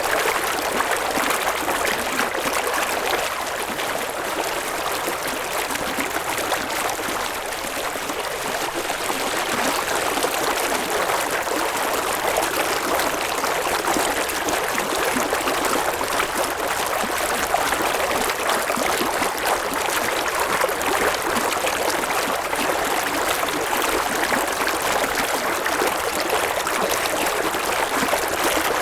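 River water flowing and babbling over stones, a steady rushing sound.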